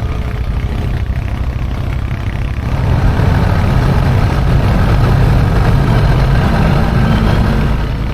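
Off-road buggy engine running while driving, getting louder about two and a half seconds in.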